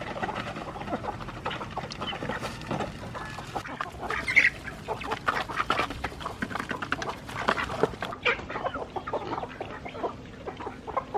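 A flock of farm poultry calling: many short, overlapping clucks and calls that follow one another densely.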